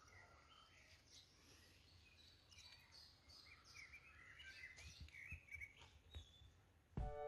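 Faint outdoor birdsong: scattered chirps and short warbling phrases from small birds over a quiet background, with music starting right at the end.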